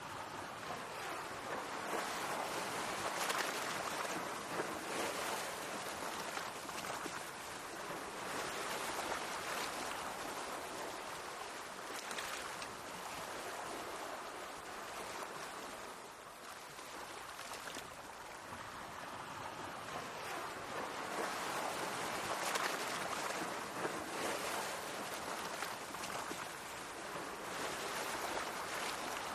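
Sea waves washing in, a steady rush of water that swells and eases every few seconds.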